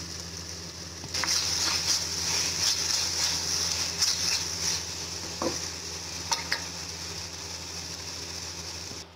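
Chopped onion, capsicum and sauces sizzling in a black kadhai while a spatula stirs them, with a few short scrapes against the pan. The sizzle grows louder about a second in and eases off after about six seconds, over a steady low hum.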